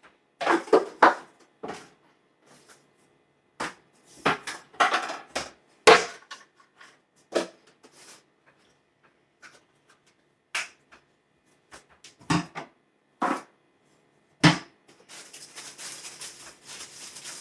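Kitchen handling sounds from seasoning a bowl of flour coating: a series of separate sharp clacks and taps of containers and utensils against the bowl and counter. A steady rustling starts near the end as the seasoned flour is stirred.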